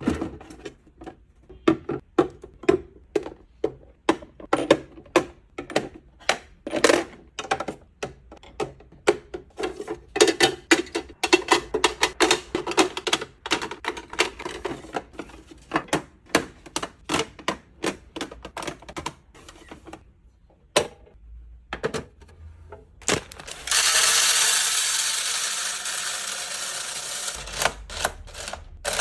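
Hard plastic and glass items clicking and clacking as they are picked up and set down while restocking, many sharp taps in quick, uneven succession. About three-quarters of the way through comes a few seconds of steady hissing that slowly fades.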